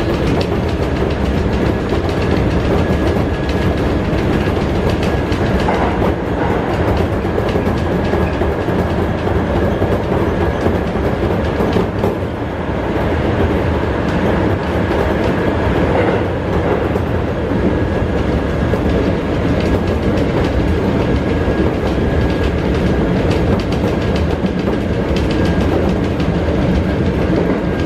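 Keisei 3400 series field-chopper electric train running through a tunnel, heard from inside the passenger car: a steady rumble of wheels and motors with a faint steady high tone.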